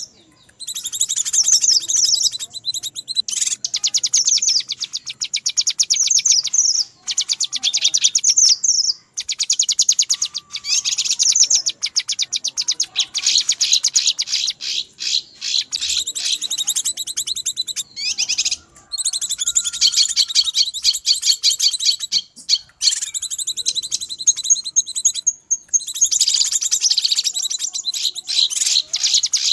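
Cucak kinoi calling in a noisy, agitated chatter: long runs of fast, dense, high-pitched notes broken by brief pauses. This is the excited 'ribut' calling used as a lure to draw in wild kinoi.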